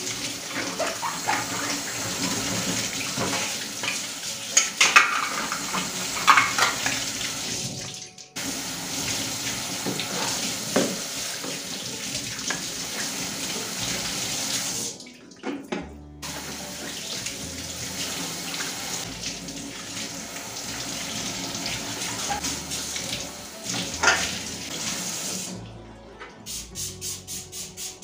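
A kitchen tap running into a sink while things are rinsed under it, with a few knocks and clatters. The water sound breaks off briefly two or three times and starts again.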